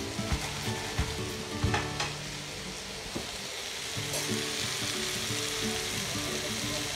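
Onion, garlic, ginger and tomato sauce base sizzling in a pot as it is stirred, with a few knocks of the stirring utensil against the pot in the first two seconds.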